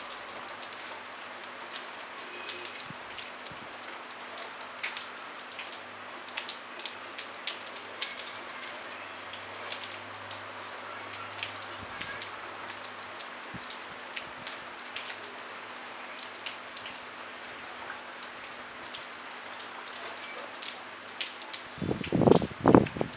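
Light, gentle rain with no thunder: a steady hiss with many individual drops heard as short sharp ticks. Near the end comes a brief cluster of much louder low thumps.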